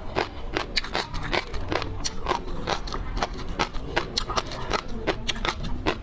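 Close-miked eating of seafood: wet, crunchy chewing and biting, a quick run of sharp clicks and crackles, about four or five a second.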